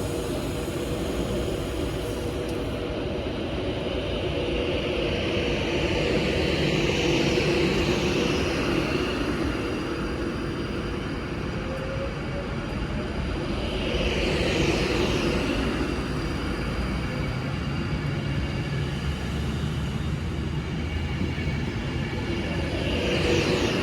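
A train running at the station: a steady mechanical rumble with a high whine that swells and fades a few times.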